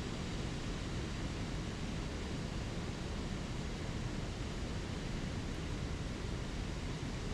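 Spring creek water rushing over small waterfalls: a steady, unbroken rush.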